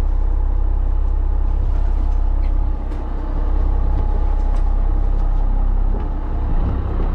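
Charter fishing boat's engine running steadily, a loud low drone that dips briefly twice.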